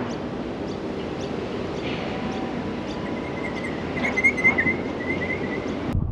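A bird chirping in a quick repeated series over a steady rushing background noise. The background drops away abruptly near the end.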